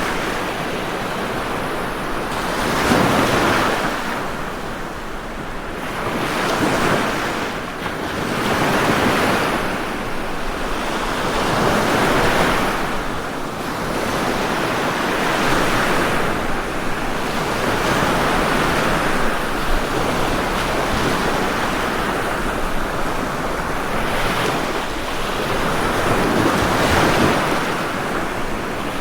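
Ocean waves washing onto a shore, the surf swelling and easing every few seconds over a continuous hiss of water.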